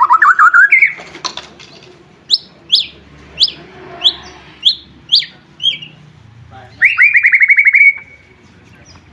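White-rumped shama (murai batu) singing: a fast trill rising in pitch at the start, then a string of about seven sharp, downward-sliding whistles, and another fast trill near the end.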